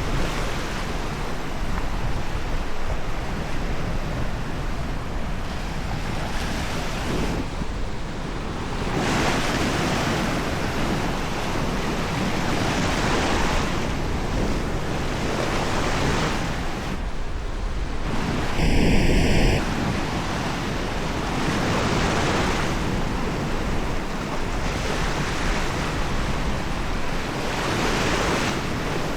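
Small waves breaking and washing up a sandy beach, the surf swelling and easing every few seconds, with wind buffeting the microphone. About two-thirds of the way through, a short high-pitched tone sounds for under a second.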